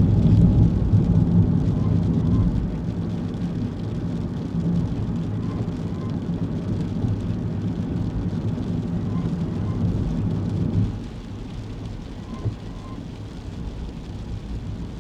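Kei car running on the road in the rain: a steady low engine hum over tyre and road noise, which eases off suddenly about eleven seconds in. A faint double chirp comes back about every three and a half seconds.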